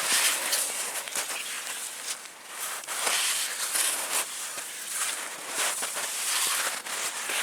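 Old Soviet skis sliding and crunching through deep snow as he strides off, a noisy swishing that swells and fades unevenly with each stride.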